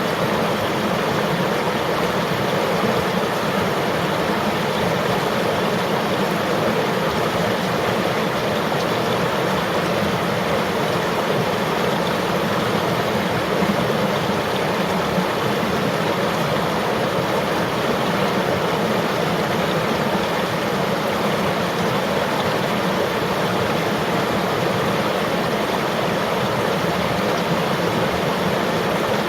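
River or stream water flowing steadily over rocks, a continuous even rush with no breaks.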